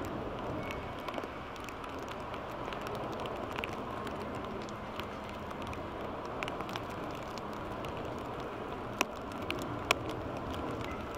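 Steady hiss of rain and wind with scattered sharp ticks of drops hitting close by, two louder ticks near the end.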